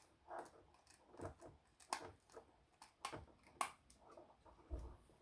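Faint handling clicks and taps of a screwdriver on a plastic security camera housing as its screws are put back in, with three sharp clicks in the middle and a dull low thump near the end.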